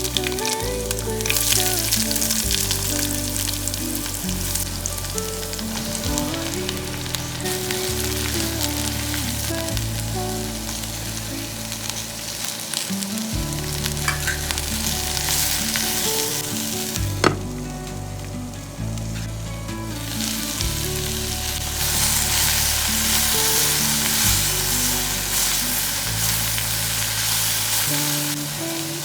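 Food sizzling as it fries in hot oil in a pan, with stirring. The sizzle drops away for a couple of seconds after a sharp click about two-thirds through, then comes back. Soft background music with sustained bass notes plays underneath.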